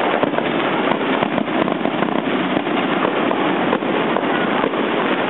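Fireworks going off in a dense, continuous crackle of many sharp pops.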